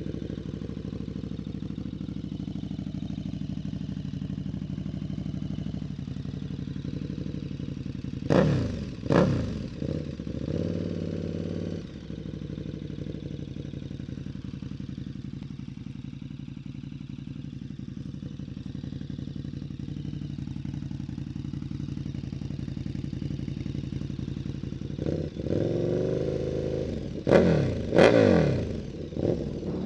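KTM 1290 Super Duke R's V-twin idling through a BMW S1000RR Akrapovic muffler on a decat link pipe, a deep exhaust note. About eight seconds in it is blipped twice in quick succession and then given a short held rev, and near the end a few smaller blips come before two more sharp throttle blips.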